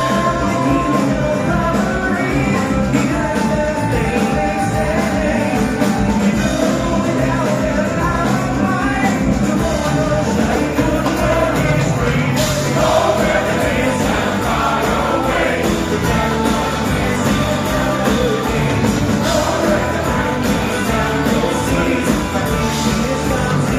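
Live bluegrass-style band playing a rock cover song with sung vocals.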